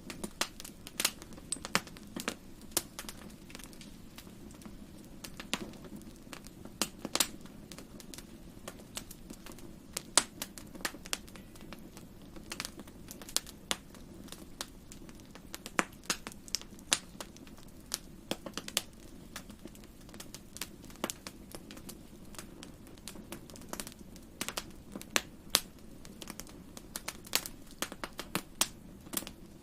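Wood fire in a fireplace crackling, with sharp irregular pops and snaps several times a second over a low steady rumble.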